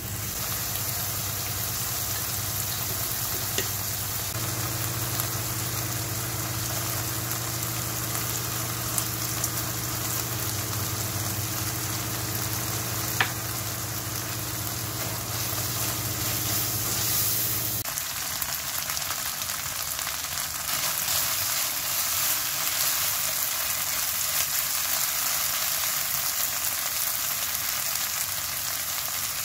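Food sizzling in a hot non-stick pan as it is stir-fried, with a few light knocks of the spatula against the pan. A steady low hum runs underneath and cuts off suddenly about eighteen seconds in.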